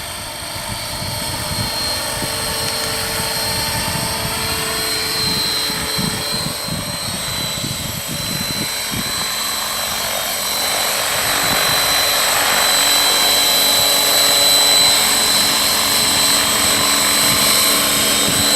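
Electric 600-class RC helicopter (Align T-Rex 600 ESP) in flight: a steady high-pitched motor and gear whine over the chop of the rotor blades, gradually growing louder.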